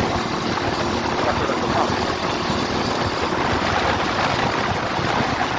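Four-stroke single-cylinder engine of an RVM CZ 250T enduro motorcycle running steadily while being ridden.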